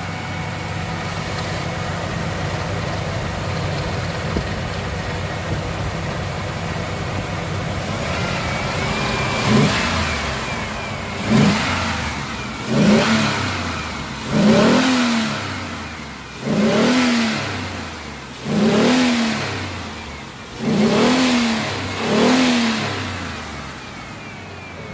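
Ford Explorer's OHV V6 running through a Flowmaster exhaust on natural gas, idling steadily for about nine seconds. It is then blipped about eight times, each rev rising and falling back to idle every second and a half to two seconds, with no knocking.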